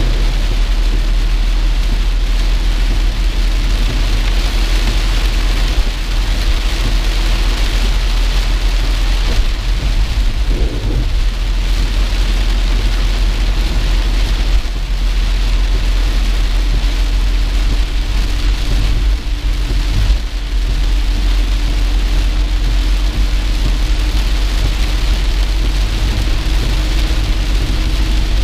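Heavy rain falling on a moving car's roof and windscreen, heard from inside the car, as a steady hiss over a constant low rumble from the car.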